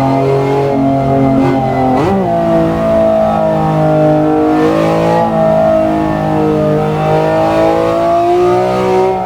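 BMW S54B32 naturally aspirated inline-six engine running, its pitch drifting slowly up and down with the revs, with a brief sharp change in revs about two seconds in.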